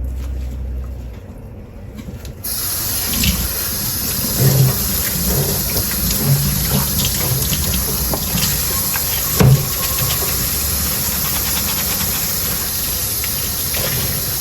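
A kitchen tap turned on about two and a half seconds in, then water running steadily into a sink while dishes are washed under it, with a few sharp knocks of dishes against each other or the sink.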